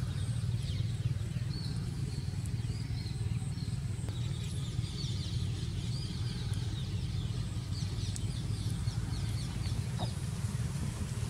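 Small birds chirping over a steady low hum.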